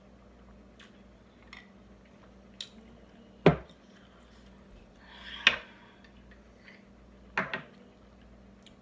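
Tableware clinking and knocking: a few faint ticks, then three sharper clinks about three and a half, five and a half and seven and a half seconds in, the first of them the loudest.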